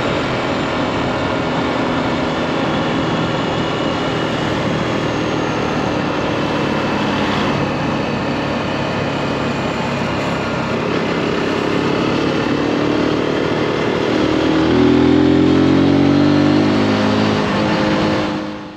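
Zontes G1 (G155) single-cylinder four-stroke motorcycle engine running under way on the road, with a wide rush of noise. About two-thirds of the way through, the revs climb and it gets louder, then the sound fades out at the very end.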